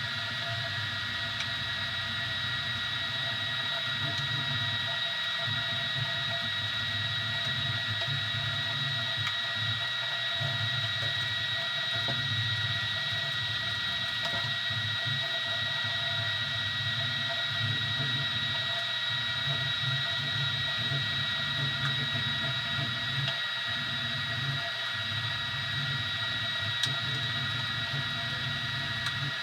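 Easythreed X2 3D printer running a print: a steady high-pitched whine from its stepper motors over a low hum that wavers as the print head moves.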